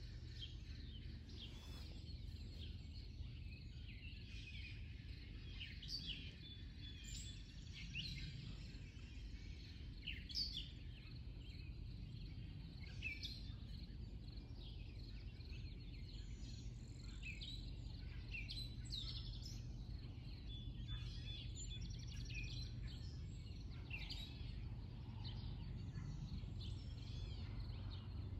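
Birds chirping and singing, short calls scattered throughout, over a faint, steady low rumble of background noise.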